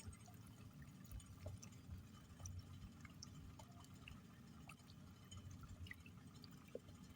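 Near silence: a faint low rumble with scattered small ticks and drips.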